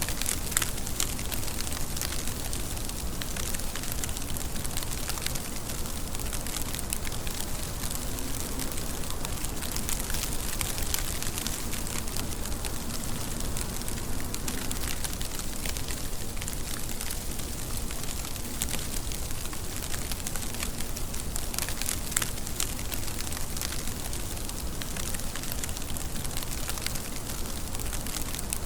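Steady rain falling, an even hiss with many crisp drop ticks scattered through it.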